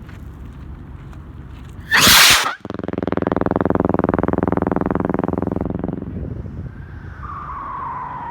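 A firework going off: a loud sharp hiss about two seconds in, then a steady pulsing buzz for about three seconds, then a falling whistle near the end.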